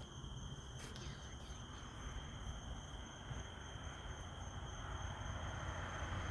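Night insects, crickets or katydids, calling steadily in two high unbroken tones, over a low, even rumble.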